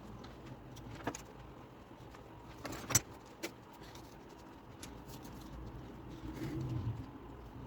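Workbench handling noises: a few sharp clicks and knocks of hard parts being set down or fitted, the loudest about three seconds in, and a softer rustling scrape near the end, over a low steady hum.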